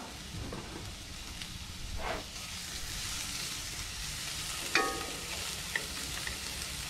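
Chopped onion and celery sizzling steadily in hot oil in a cast iron skillet, stirred with a wooden spatula. There are a couple of brief spatula scrapes against the pan, about two seconds in and again near five seconds.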